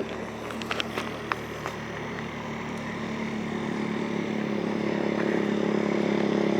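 A mini bike's small engine running at a steady pitch, growing louder as it approaches. A few light clicks sound in the first couple of seconds.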